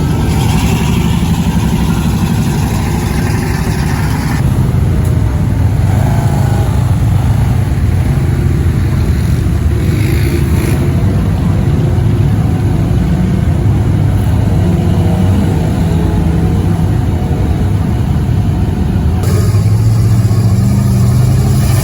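Big mud truck engines running loud and hard, the pitch shifting as they rev, with abrupt changes in the sound about four seconds in and near the end.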